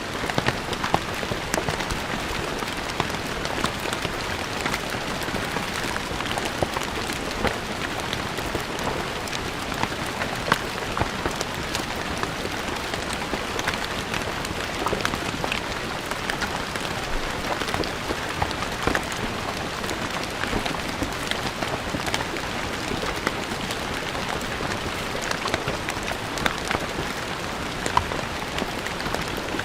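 Steady rain falling on a stone floor, a constant hiss with many distinct drop splashes and ticks.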